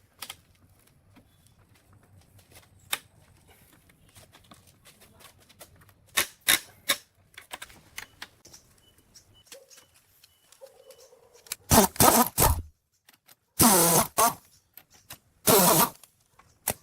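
Metal parts and hand tools clinking and tapping, followed near the end by three short, loud bursts of harsh noise from machine work.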